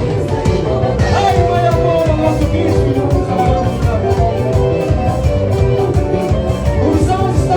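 Live band playing upbeat dance music with a steady drum beat, strong bass and singing.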